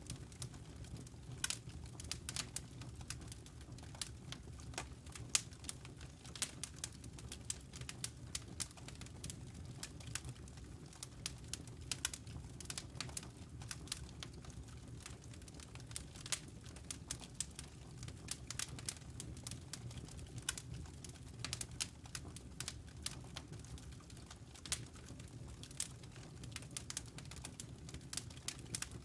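Campfire burning, its embers and wood giving many irregular sharp crackles and pops over a low steady rumble.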